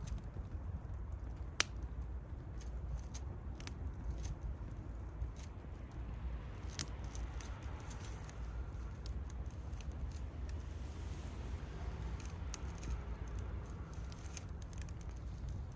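Wood bonfire burning, with scattered crackles and sharp pops over a low steady rumble; two louder pops come about a second and a half in and near the middle.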